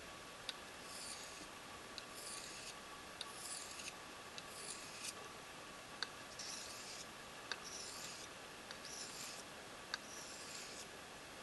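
Knife blade being drawn across a small coticule whetstone: faint, gritty scraping strokes, about one every second and a half, each starting with a light tick.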